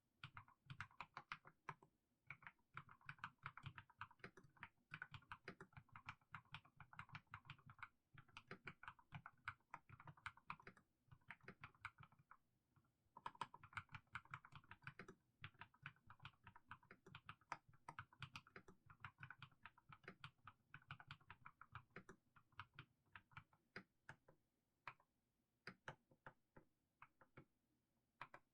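Typing on a mechanical keyboard with fully lubed Haimu Sea Salt switches: a quick, steady run of keystrokes that stops briefly about halfway. Near the end it thins out to slower, scattered key presses.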